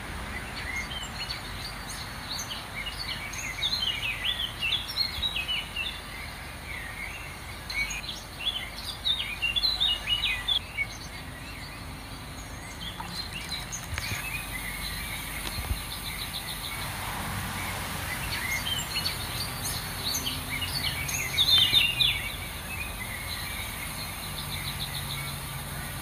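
Small birds chirping and twittering in several bouts over a steady outdoor background hiss, with a couple of short, rapid trills in between.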